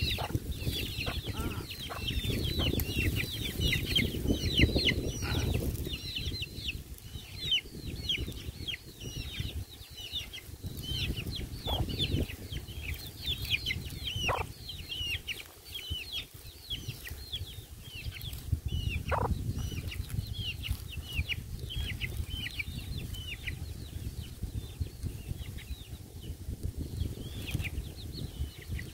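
Birds chirping continuously: many short, high calls, each falling in pitch, several a second, over a low rumble.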